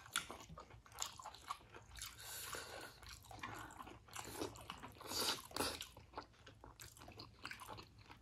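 Chewing and eating: many irregular mouth clicks and smacks from people eating steamed momo dumplings.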